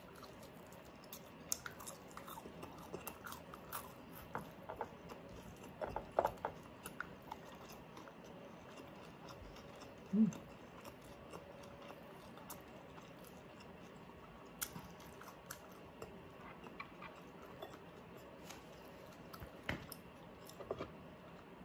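Close-miked chewing of baked pork knuckle (crispy pata), with soft wet mouth clicks and smacks rather than crunching, as the baked skin is not crisp. A short low hum about ten seconds in.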